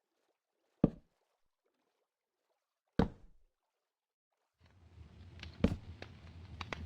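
Campfire wood crackling: two single sharp pops, then from about two-thirds in a steady crackle and hiss with many small pops.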